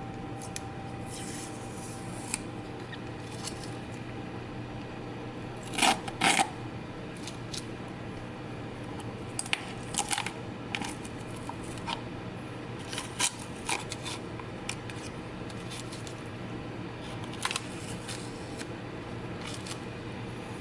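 Scattered metallic clicks and clinks from handling a freshly painted wheel hub and its parts, the loudest a quick pair about six seconds in, over a steady low electrical hum.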